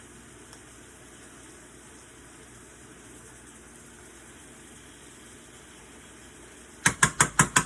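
Faint steady hiss of shrimp cooking in a pan, then near the end a fast run of sharp clacks, about seven a second.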